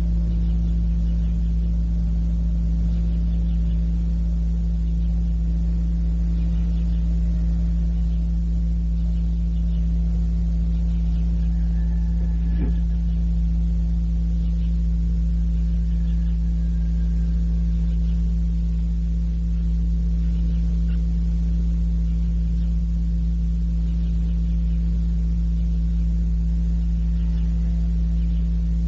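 Steady electrical mains hum with several overtones on an old cassette recording, and a single faint click about halfway through.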